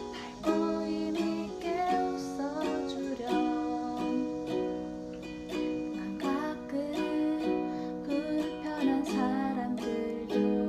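Ukulele playing a song, its plucked chords and melody notes following in a steady rhythm.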